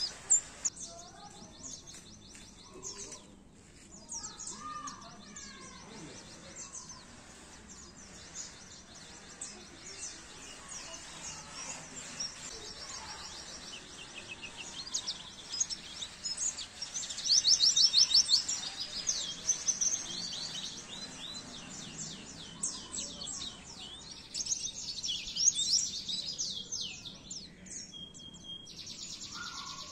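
Small songbirds twittering: fast, high chirps and rapid trills that run on without a break. A louder run of quick repeated notes comes about two thirds of the way through.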